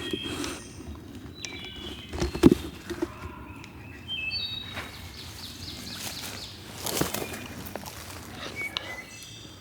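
Songbirds chirping and trilling steadily over a low outdoor rumble. Several sudden knocks or rustles cut in, the loudest about two and a half seconds in and another about seven seconds in.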